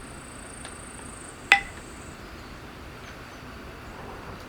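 A single sharp clink with a brief ringing tail about a second and a half in, over a steady faint hiss of room noise, with a thin high-pitched whine in the first two seconds.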